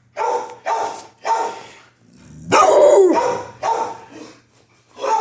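Dog barking: three short barks about half a second apart, then a louder, longer bark that drops in pitch about two and a half seconds in, followed by more short barks.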